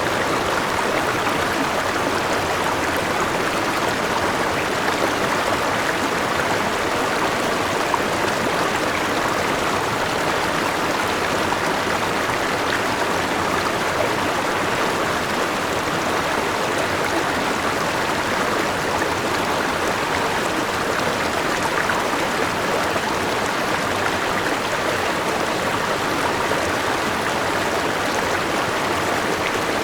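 A forest river and waterfall rushing steadily, a continuous even wash of flowing water.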